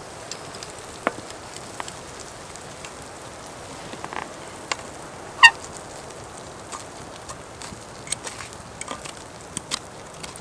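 Campfire crackling: scattered sharp pops and ticks over a steady faint hiss, with one louder pop about five and a half seconds in.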